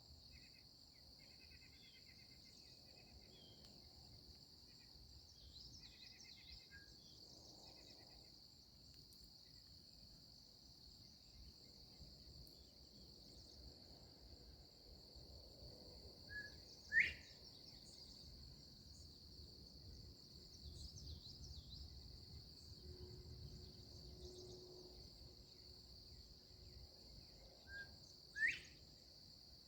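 Northern bobwhite quail calling its two-note 'bob-white' twice, about eleven seconds apart: a short soft note, then a loud whistle sweeping upward. Between calls a steady high insect drone runs on, with faint twittering of other birds near the start.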